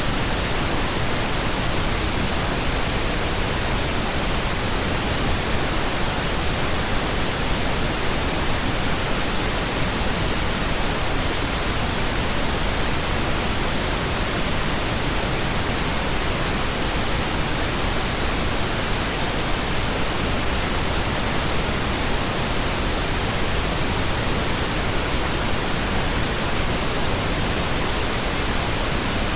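Pink noise: a steady, unvarying hiss spread evenly across the whole range, with no rhythm or change.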